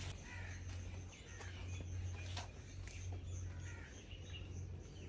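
Faint bird calls: several short, curling chirps spread through, over a low steady hum.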